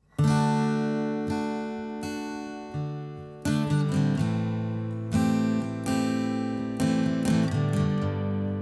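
Background music: an acoustic guitar strumming chords, each chord struck and left to ring, as the instrumental intro of a song.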